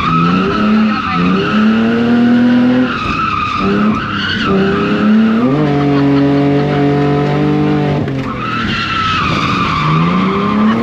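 E46 BMW drift car's engine revving hard, its pitch climbing and falling back several times, while the tyres squeal through long slides.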